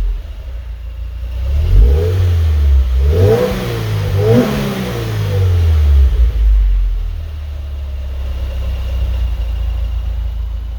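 Exhaust of a 2017 Subaru WRX's turbocharged flat-four, running through a muffler-delete axle-back with no mufflers or resonators. The engine revs up from a low steady note to a peak about three to four seconds in, then falls back to a steady low drone.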